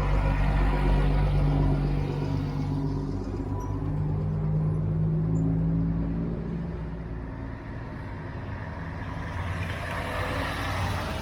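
Heavy truck's diesel engine pulling away: loud at first, revving higher around four seconds in, then fading as it moves off. A rush of noise swells near the end.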